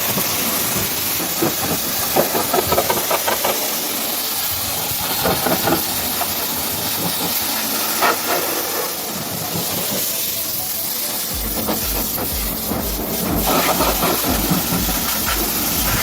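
High-pressure washer jet spraying water, a loud steady hiss with spattering crackles. About eleven seconds in a low, regular pulsing at roughly two beats a second joins it.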